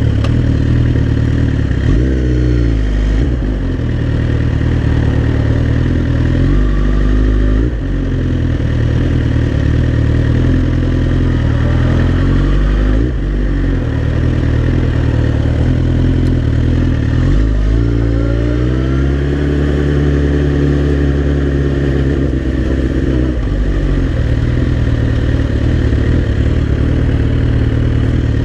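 Suzuki GSX-R's inline-four engine under way, rising in pitch several times as it accelerates and falling back between. About two-thirds of the way through, a longer climb holds for a few seconds before easing off.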